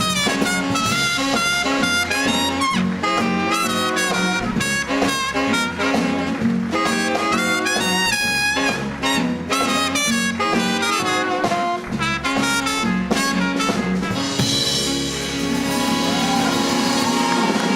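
Live swing dance band with trumpets, trombones, saxophones and drum kit playing an up-tempo jazz number. About fourteen seconds in, the band holds a long closing chord while a wash of applause rises.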